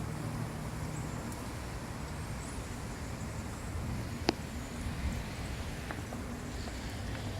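Steady low outdoor rumble, with one sharp click a little over four seconds in.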